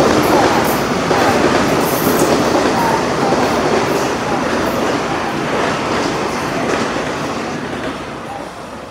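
Metro-North electric multiple-unit commuter train passing close by, a steady rush of wheel and rail noise that fades near the end as the train moves away.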